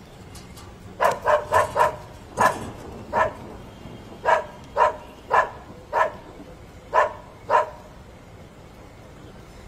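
A dog barking, about a dozen sharp barks in quick runs with short gaps between them.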